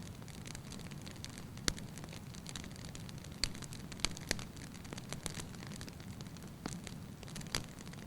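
Burning wood logs in a fireplace crackling, a low steady rumble under irregular sharp pops, the loudest a little under two seconds in, twice around four seconds, and near the end.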